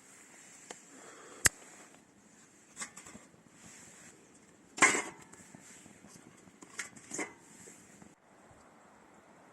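A few sharp clicks and knocks of hard objects being handled, the loudest a short clatter about five seconds in, with two more about two seconds later, over a steady faint hiss.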